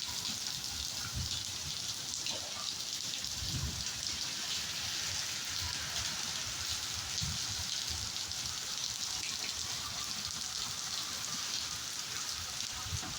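Steady heavy rain, an even hiss of falling drops, with a few brief low bumps now and then.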